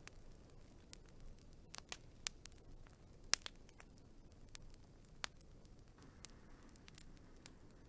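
Wood fire crackling: scattered sharp pops and snaps over a soft low hiss of burning, with one louder pop about three and a half seconds in.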